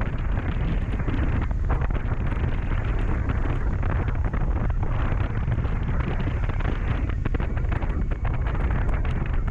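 Wind buffeting the microphone on a moving motorcycle, with the Honda CB400SF's inline-four engine running underneath, a steady rushing noise without breaks.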